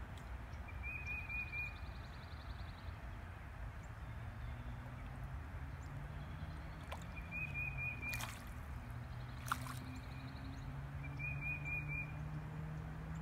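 Outdoor ambience with a low steady rumble and faint hum, over which a bird gives the same short high trill three times, a few seconds apart. A couple of faint clicks or small splashes come about two thirds of the way through.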